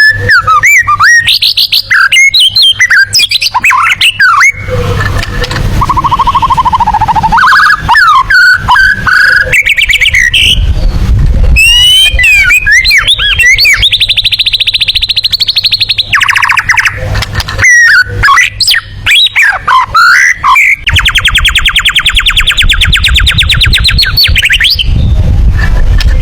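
White-rumped shama (murai batu) singing loudly in competition style: varied whistles and chattering phrases, broken by long, very rapid trills, one midway and a longer one near the end.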